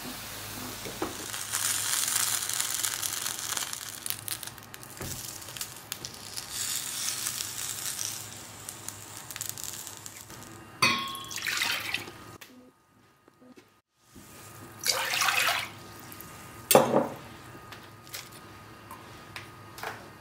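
Food sizzling in a heavy grill pan, mushrooms and onions and then a sausage, with the clatter of cookware being handled. The sizzle breaks off briefly past the middle, and a sharp knock near the end is the loudest sound.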